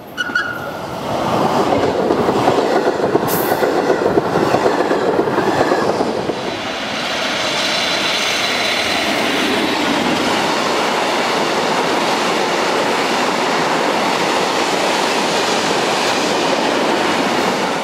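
Electric trains passing close by: first a regional passenger train, then, after a change about six seconds in, a freight train of tank wagons behind an electric locomotive rolling steadily past, wheels clattering over the rails with a faint high whine. The sound cuts off at the end.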